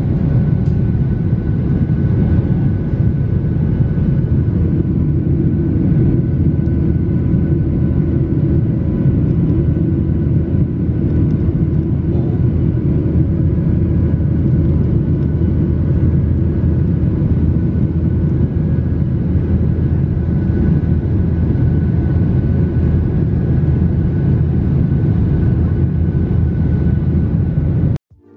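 Steady low rumble of an airliner cabin in flight, jet engine and airflow noise with a few faint steady tones above it. It cuts off suddenly near the end.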